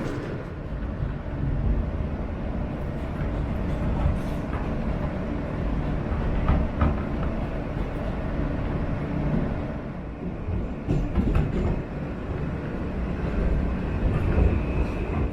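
New York City subway train running on the tracks: a steady heavy rumble with a few sharp clicks and knocks. A thin high tone comes in near the end.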